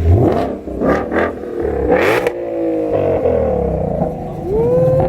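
Car engine revved hard in several sharp bursts, then its pitch falls away as the revs drop.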